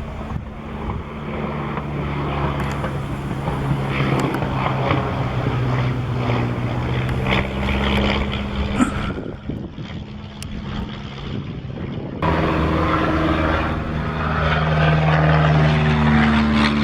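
Propeller drone of a de Havilland Chipmunk's Gipsy Major four-cylinder engine in flight. The steady engine note dips for a few seconds, then jumps louder about twelve seconds in as the plane comes close, with its pitch shifting as it passes.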